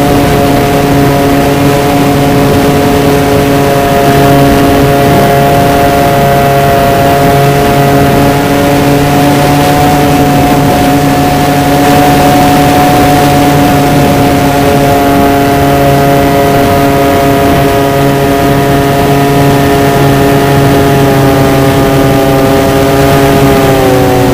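RC model Cessna's motor and propeller running steadily at cruise, heard up close from the plane's onboard camera, with its pitch dipping near the end as the throttle eases back.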